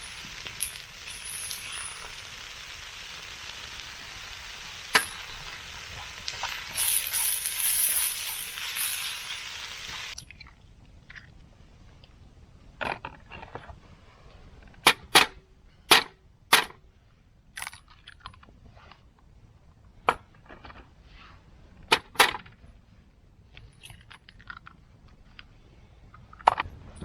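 Food sizzling in a pan over a campfire as a steady hiss with occasional pops. It stops abruptly about ten seconds in, and a scattered series of sharp clicks and taps follows.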